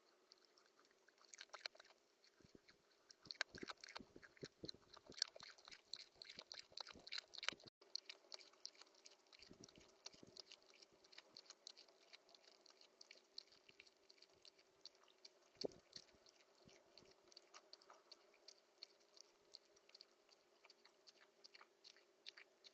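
A small cheek-pouched rodent cracking and chewing seeds: rapid, faint crunchy clicks, densest in the first eight seconds, then lighter scattered nibbling.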